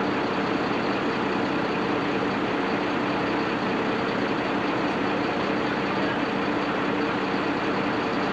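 Heavy diesel engine running steadily at idle, a constant low hum with an even rumble over it.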